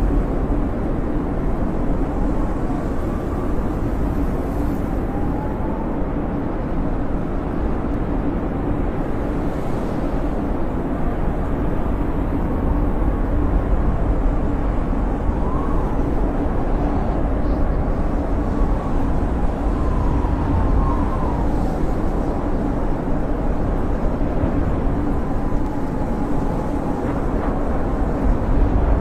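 Snowstorm wind blowing steadily with a low rumble, and a faint whistling howl that rises and falls in pitch now and then.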